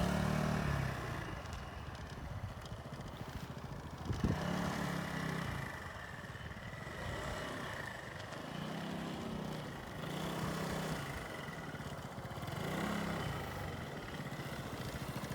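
Motorcycle engine rising and falling in pitch as the throttle is opened and eased off again and again through a slow cone weave, with one sharp click about four seconds in.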